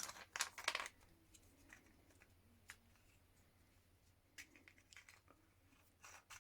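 Faint handling noise: a few short clicks and rustles, several in the first second, one a little before three seconds and a few more later, as a plastic emergency stop button is picked up and turned over.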